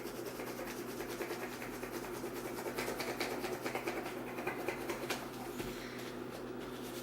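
Crayon rubbed back and forth over paper laid on a leaf: a continuous scratchy scraping made of many quick small strokes.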